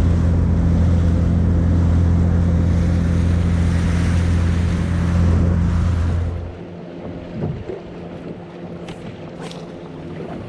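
Boat's outboard motor running under way with wind and rushing water, a steady low hum. About six and a half seconds in it drops off suddenly to a much quieter sound with a few faint clicks, as the boat slows.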